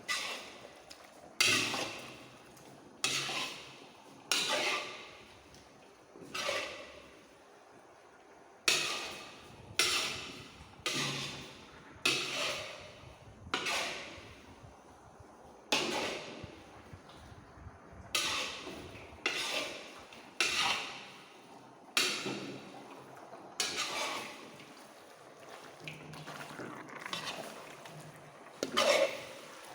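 A ladle stirring and scraping through chicken and masala in a large cooking pot, a steady run of strokes about one every second or so.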